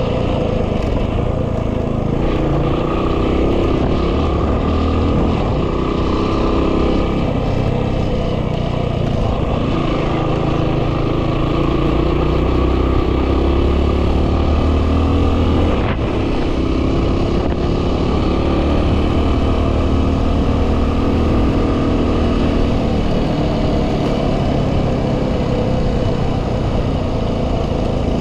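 Yamaha WR250R's single-cylinder four-stroke engine running under way on a dirt track, its note shifting up and down with the throttle. Heavy wind noise on the microphone runs under it.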